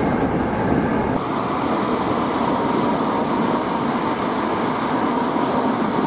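Steady running noise of a Hankyu Kobe Line electric train passing along the track, wheels on rail, heard from beside the line, with a faint steady high tone. For about the first second the noise is the train's own running sound from on board.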